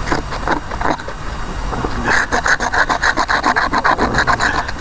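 Rapid, rhythmic scraping or rasping: a few scattered scrapes at first, then from about two seconds in a fast, even run of about eight strokes a second that stops just before the end.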